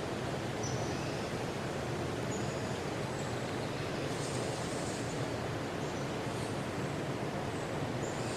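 Forest ambience: a steady low rushing noise, with a few faint, short, high bird chirps over it.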